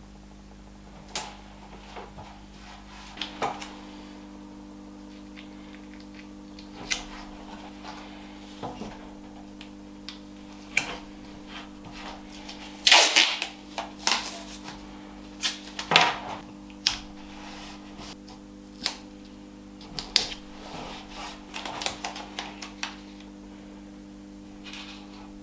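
Irregular knocks and clicks of wooden pieces and tools being handled on a workbench, loudest in a cluster about halfway through, over a steady hum.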